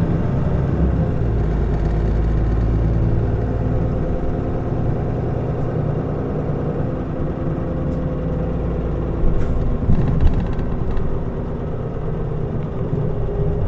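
Mitsubishi Fuso Aerostar city bus under way, heard inside the cabin: its diesel engine runs with a steady drone whose pitch drifts only slightly, and a few short knocks or rattles come about nine to ten seconds in.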